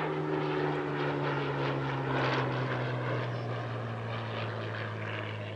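Piston-engined propeller aircraft flying past, its engine note falling slowly and steadily in pitch as it goes by.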